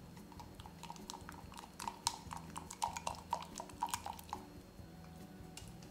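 Close-miked chewing of cheese-filled dumplings: a quick run of sharp mouth clicks from about two seconds in until just after four seconds.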